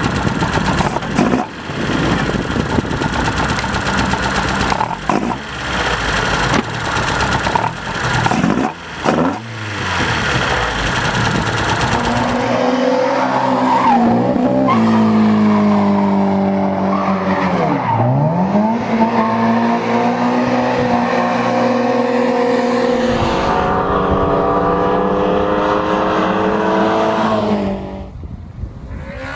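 A car being driven hard, its engine running at high revs. The first part is rough and noisy with sharp knocks; then comes a steady high-revving tone whose pitch dips sharply about two-thirds of the way through and climbs back, before the sound cuts away near the end.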